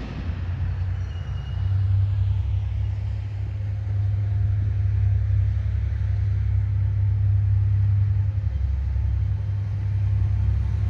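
EMD GT22HW-2 diesel locomotive engine running with a steady low rumble, growing louder about two seconds in.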